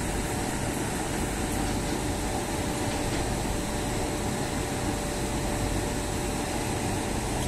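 Steady mechanical hum and rush of trains at a station, with a faint constant high tone and no change in loudness.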